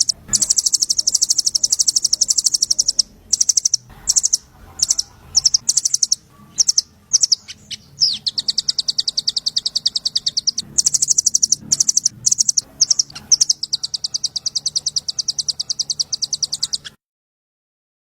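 Small songbird calls used as masteran: fast, high-pitched trills of rapid repeated notes, in runs broken by short gaps, that cut off suddenly about a second before the end.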